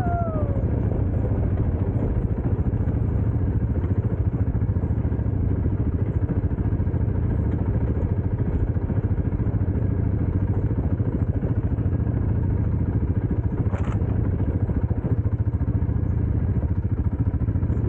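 Dirt bike engine running at a steady pace, with no clear revving up or down. A single short click about three-quarters of the way through.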